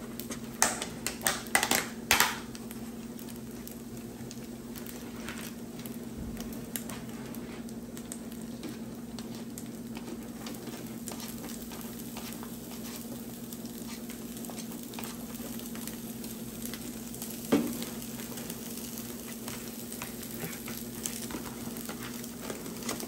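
Fried rice sizzling on a Blackstone 22-inch E-Series electric tabletop griddle, over a steady low hum. A handful of sharp clicks come in the first couple of seconds, and one more comes about three-quarters of the way through.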